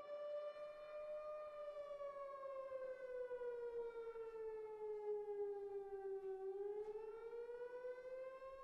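Civil defense siren wailing, a long steady tone that sinks slowly in pitch for about six seconds and then rises again.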